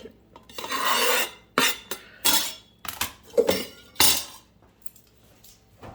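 Kitchen utensils and dishes being handled on a counter: a series of clattering knocks and scrapes, one longer scrape about a second in, the last one about four seconds in.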